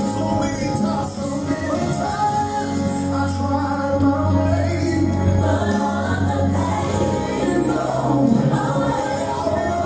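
Gospel music: a group singing together over a steady bass line, with a tambourine shaking.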